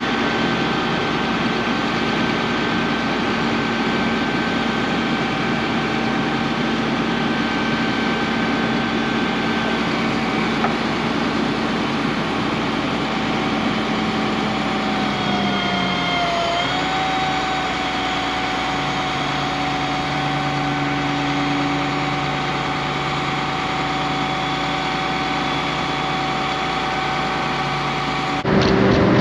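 A car engine running steadily with a constant drone and road noise. About halfway through, its pitch dips briefly and then settles into a slightly different hum.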